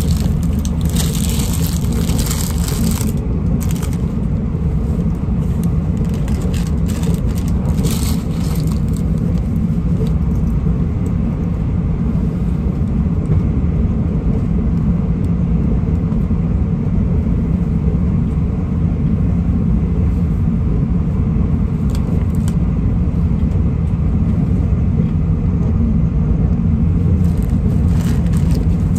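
Steady low rumble of a Taiwan Railways passenger train running along the track, heard from inside the carriage, with brief rustling near the start.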